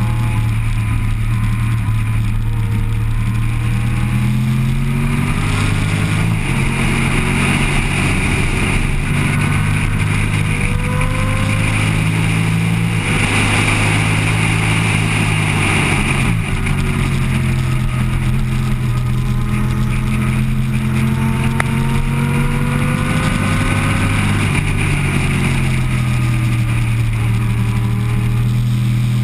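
Motorcycle engine heard from onboard at track speed: its pitch climbs again and again as it accelerates and shifts up, and drops off around the middle before climbing again, over a steady rush of wind.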